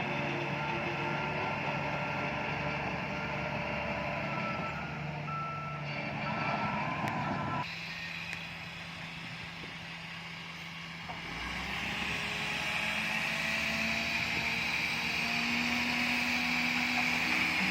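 Diesel engines of earthmoving machines running, with a vehicle's reversing alarm beeping. The sound changes abruptly about halfway through, then the engine note rises.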